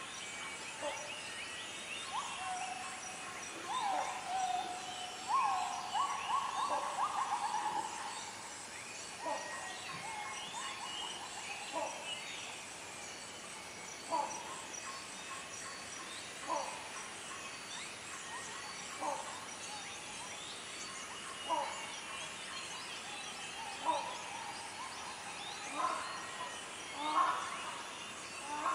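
Dawn chorus in the Bornean lowland rainforest: many birds chirping and calling together. A louder wavering call rises and trills a few seconds in. After it, a short call repeats every two to three seconds, coming quicker near the end.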